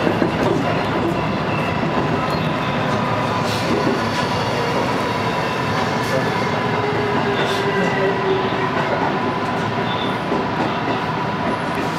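JR commuter electric train running along a station platform, heard from inside the lead car: a steady running rumble with a thin steady hum and a few clicks from the wheels.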